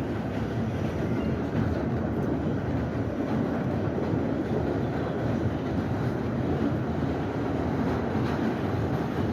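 R68 subway train running along the track, a steady low running noise that holds evenly throughout.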